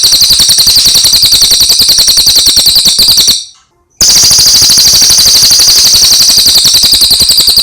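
Cililin songbird singing a fast, even trill of high notes, breaking off for about half a second a little past three seconds in and then starting again.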